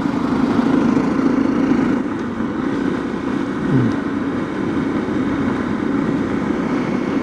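Honda CRF250L's single-cylinder engine running steadily on the move, a little louder for the first couple of seconds, with a brief drop in pitch about four seconds in.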